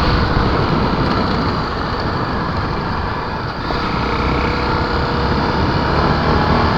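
Honda XR250 Tornado's single-cylinder four-stroke engine running steadily as the motorcycle is ridden, heard together with steady riding noise.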